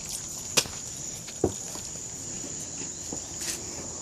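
Two sharp clicks a little under a second apart, then a few fainter ticks, over a steady high-pitched chirring like insects.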